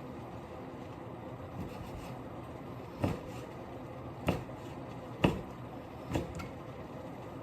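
Four sharp knocks about a second apart over a steady background hum.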